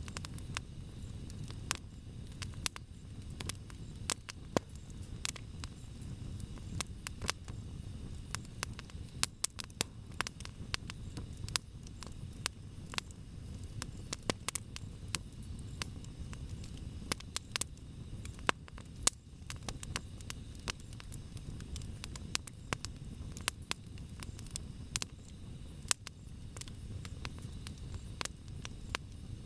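Wood campfire crackling: frequent irregular sharp pops and snaps over a low, steady noise of the burning fire.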